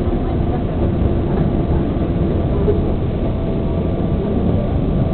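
New York City subway train running along the track, heard as a steady loud rumble with a faint motor whine.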